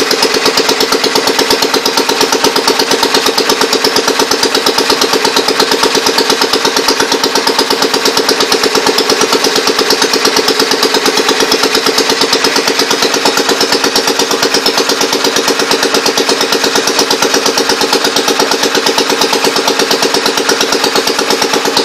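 J.A.P. engine-driven compressor set running steadily, with an even, rapid pulsing beat that does not change in speed.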